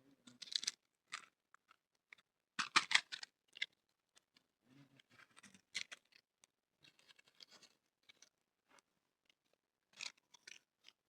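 Irregular short crunching and scraping noises, coming in scattered clusters a few seconds apart.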